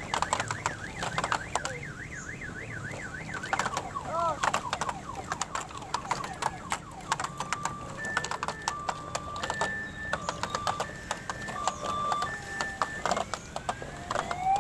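Electronic siren-like sound effects: a fast warbling tone at first, then a run of beeps alternating between two pitches, and rising whoops near the end, over a busy background with many sharp clicks.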